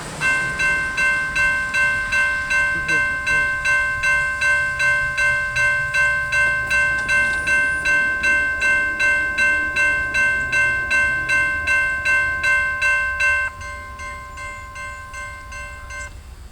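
Railroad grade crossing bell ringing rapidly, about two strokes a second, over the faint low rumble of a passing train. The bell gets quieter near the end, then stops.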